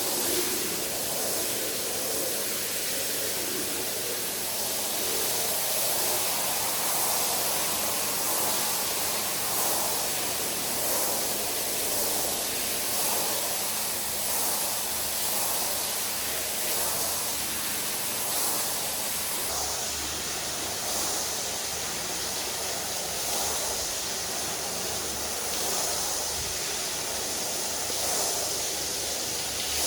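Water spraying steadily onto a mud-soaked rug, an even hiss that swells and eases slightly as the spray moves across the pile.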